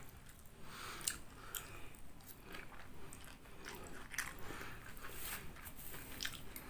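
Close-miked chewing of mie ayam (chicken noodles): soft, wet mouth sounds with a few sharp clicks scattered through.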